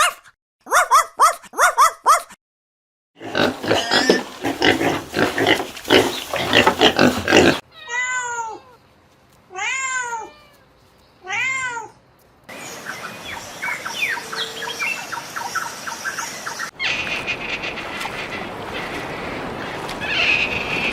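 A run of different animals' calls in short clips cut one after another: quick pitched calls, then a dense chorus of calls, then three separate rising-and-falling calls, then fainter calls over a steady background noise.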